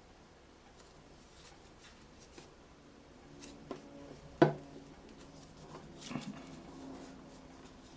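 Quiet handling of folded paper: light rustles and small taps, with one sharper click about halfway through and a few more clicks a little later.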